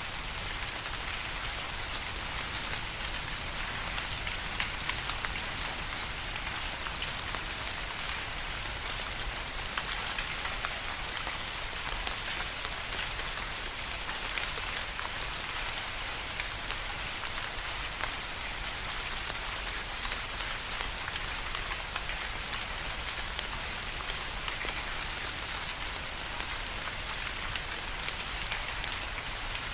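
Steady rain falling and pattering on a surface, with a dense, even hiss and many small drop ticks throughout.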